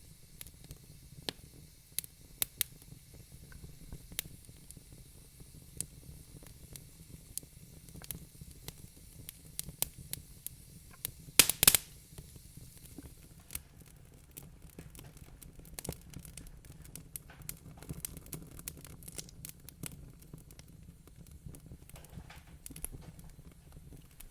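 Wood fire crackling in a fireplace: irregular sharp pops and snaps over a low steady rumble of the burning fire, with the loudest pops, two close together, about halfway through and quicker small crackles after that.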